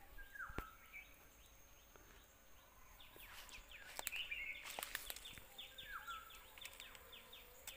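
Faint woodland background with a bird calling twice, each a short falling note, and a few faint sharp knocks around the middle.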